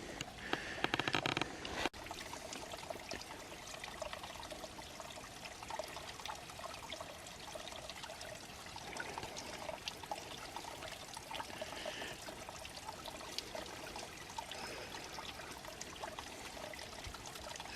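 Small creek waterfall trickling and splashing steadily, with a brief louder noise about a second in.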